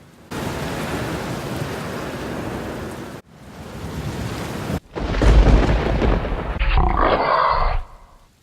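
Sound-effect storm: heavy rain pouring, cut off abruptly about three seconds in, then rain swelling again. About five seconds in comes a loud, deep rumble of thunder that lasts about three seconds.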